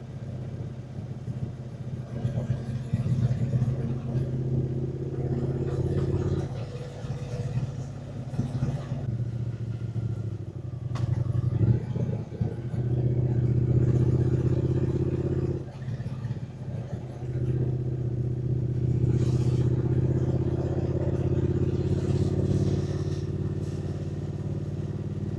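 Triumph Speed Twin 900's parallel-twin engine running while the motorcycle is ridden; its note falls away and picks back up several times as the throttle is closed and reopened.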